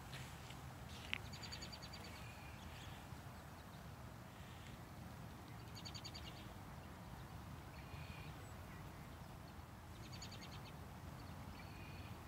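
A small songbird singing, faint: a short, rapid, high trill repeated about every four seconds, with a few single high notes between, over a low steady rumble. A single sharp click about a second in.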